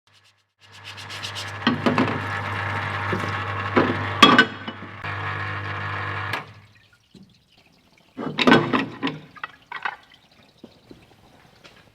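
Parts washer running: its pump hums steadily while solvent pours from the nozzle and metal engine side casings clink in the tub, stopping after about six seconds. Then a short burst of clattering as the casings are handled.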